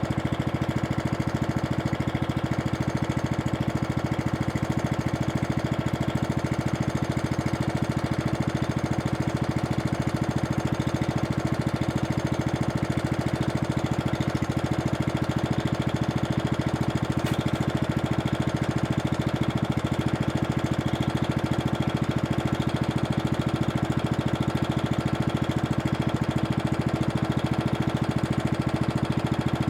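Toro Super Recycler lawn mower's 6 hp Briggs & Stratton engine running steadily at constant speed.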